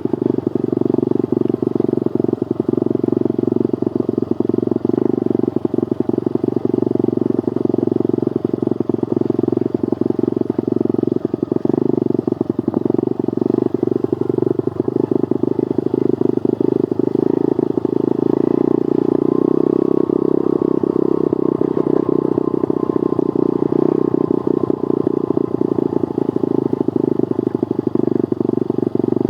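Pit bike's small single-cylinder engine running steadily during a ride, with a constant choppy flutter over it; the engine note climbs a little about two-thirds of the way through.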